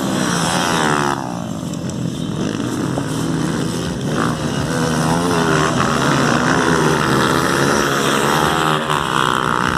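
A pack of motocross bikes racing off the start, many engines revving together, their pitches rising and falling as they accelerate and shift.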